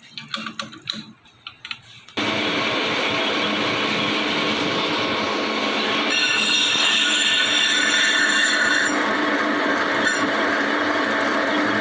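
Lathe cutting a brake disc: a few clicks and knocks, then about two seconds in a sudden steady cutting noise with several high-pitched squealing tones. The tones shift a few times as the tool works across the disc face.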